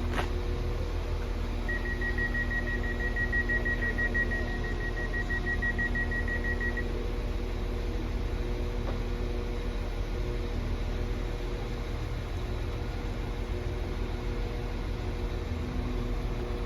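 Diesel multiple unit standing at the platform with its engine idling: a steady low rumble and hum. About two seconds in, a rapid high beeping starts and runs for about five seconds: the train's door warning alarm.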